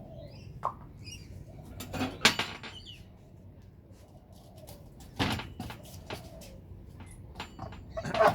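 Knife scraping and knocking on a native bee hive box as wax is cut away, a few sharp knocks and scrapes, the loudest about two seconds in and near the end. Birds chirp faintly near the start.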